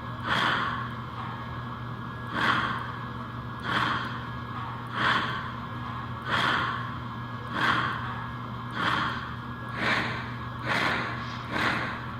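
Model steam locomotive chuffing, the steam-chuff sound of the rebuilt American Flyer K5 Pacific's digital electronics. The hissy chuffs come about one every second and a bit, then quicken over the last few seconds as the engine picks up speed. A steady low hum runs underneath.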